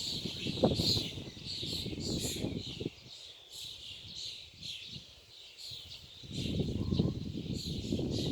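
A flock of birds calling in a tree, many short high chirps overlapping without a break. A low rumble lies under them for the first three seconds and comes back near the end.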